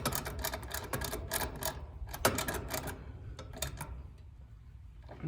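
Rapid metallic clicking of a tool turning an air conditioner's liquid-line service valve open until snug. The clicks thin out and stop about four seconds in.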